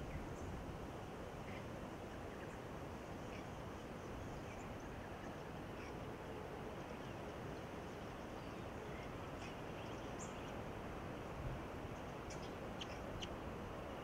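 Steady outdoor background hiss with faint, scattered high-pitched bird chirps; a few short, sharper chirps come close together near the end.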